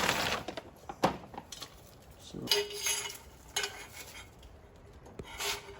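Metal motorcycle exhaust parts and tools clanking and clinking as they are handled during an exhaust swap. There are several sharp knocks, and after one about two and a half seconds in, a faint metallic ring carries on.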